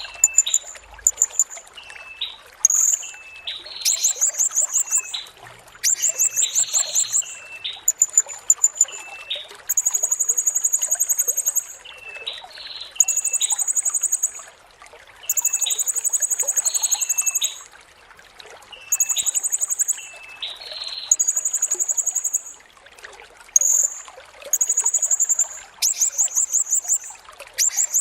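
Blue-crowned hanging parrot (serindit) singing: high, fast, buzzy trills of one to two seconds each, repeated over and over with short gaps, alternating with short lower chirps.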